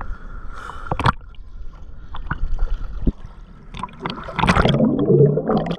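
Water gurgling and sloshing against a handheld action camera in rough surf, with a few sharp knocks and a louder, muffled churning of water near the end.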